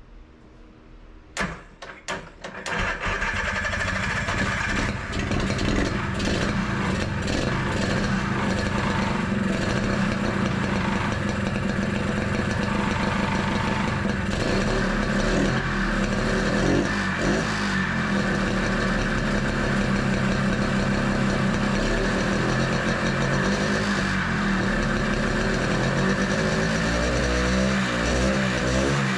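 Rebuilt single-cylinder two-stroke engine of a 1982 Honda Odyssey FL250, running through its stock exhaust. It fires with a few sharp pops about one and a half seconds in, catches, and then runs continuously with the revs rising and falling. It will not settle to an idle.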